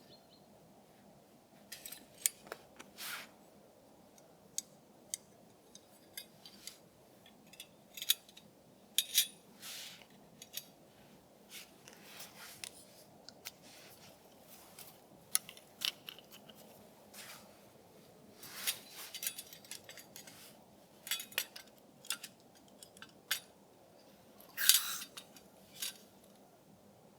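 Irregular sharp clicks and short scraping sounds of small objects being handled, over a steady faint hiss.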